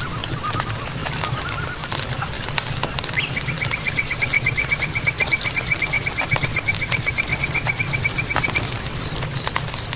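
Campfire crackling with scattered sharp pops over a low steady rumble. Short warbling animal calls come in the first couple of seconds, and about three seconds in an animal starts a rapid, even trill of roughly seven pulses a second that stops shortly before the end.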